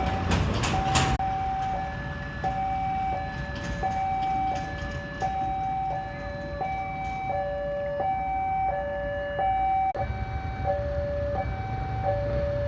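Railway level-crossing warning alarm sounding, two electronic tones alternating, each held for under a second, warning that a train is approaching. A low rumble joins in about ten seconds in.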